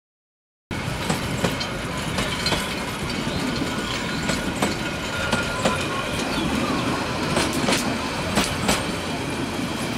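Bangladesh Railway passenger coaches rolling past on the track: a steady rumble of wheels on rail, broken by irregular sharp clicks as the wheels cross rail joints. The sound starts abruptly just under a second in.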